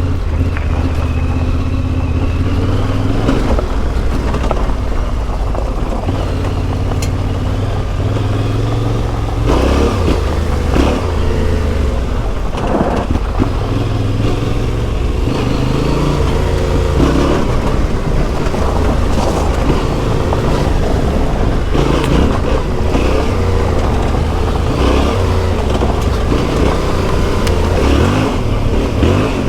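Yamaha Ténéré 700's CP2 parallel-twin engine through an Akrapovic exhaust, under way, its revs rising and falling in steps as it pulls and shifts through the gears. From about a third of the way in, rougher noise joins the engine.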